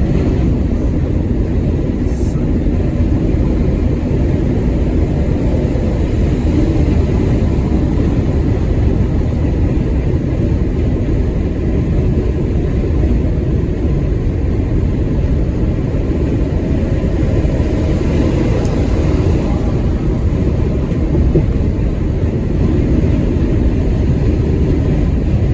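Truck cruising at motorway speed, heard from inside the cab: a steady low drone of engine and road noise.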